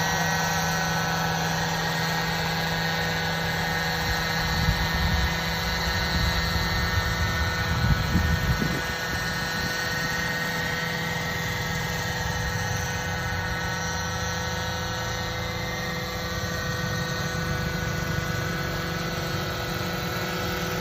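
Small drone's electric rotors whirring steadily, a constant whine of several pitches. Louder low rumbling gusts come from about four to nine seconds in.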